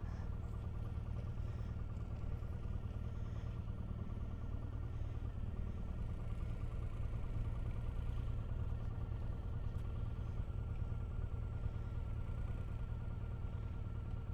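Motorcycle engine running steadily at low speed, with a constant low rumble.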